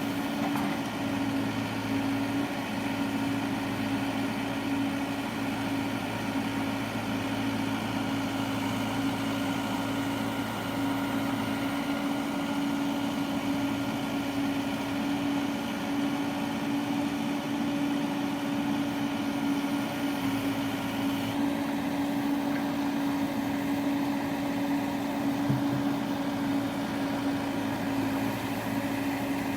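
Diesel earthmoving machine's engine running steadily with an even hum, its pitch unchanging throughout.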